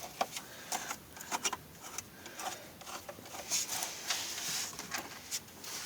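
Scattered light clicks and rustling of hands handling parts in a truck's engine bay, with a few short scraping rubs.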